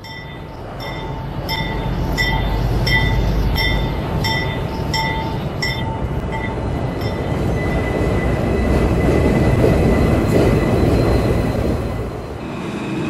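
Train running on rails, swelling to its loudest around ten seconds in and easing off near the end. Over the first seven seconds a ringing tone repeats about one and a half times a second.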